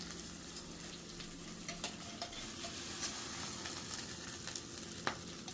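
Eggs frying in a pan with a steady sizzle, with a few light clicks and scrapes of a spatula against the pan and one sharper click about five seconds in.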